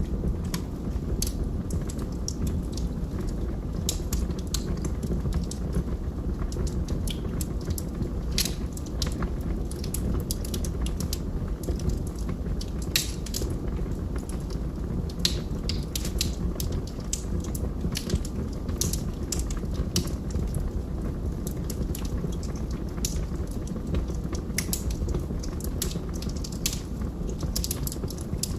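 Wood logs burning in a fireplace, crackling: frequent sharp, irregular pops and snaps over a steady low rumble of the fire.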